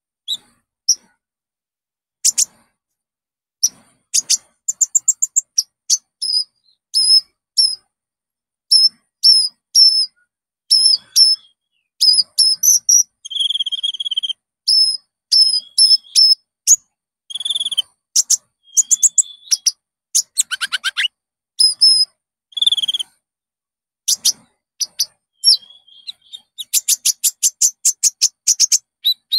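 Konin (kolibri ninja), a sunbird, singing: short, sharp, high chirps and whistled notes in quick phrases with brief pauses, ending in a fast run of rapid chirps. It is a lure recording used to set caged konin singing.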